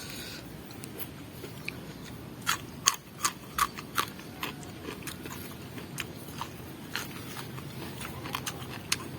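Biting and chewing crisp raw vegetables, with a run of sharp crunches from about two and a half to four seconds in, then scattered softer crunches.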